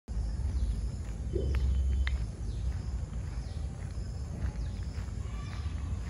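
Birds calling in forest, short falling high notes repeated every second or so, over a low rumble of wind on the microphone.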